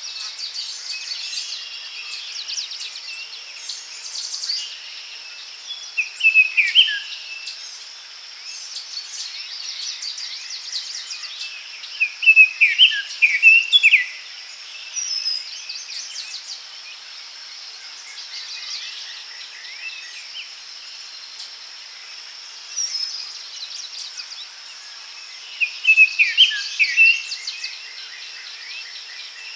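Birds singing in a daytime forest, with short bright phrases coming three times, over a steady high-pitched insect drone.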